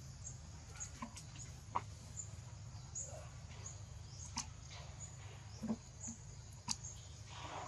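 Scattered short, high squeaks from monkeys and a few sharp clicks over a steady low hum.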